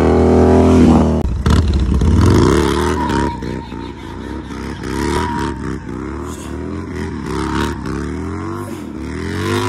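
Harley-Davidson Road Glide's V-twin engine revving hard for about a second, then revved up and down over and over, about once or twice a second, while the rear tyre spins in a burnout.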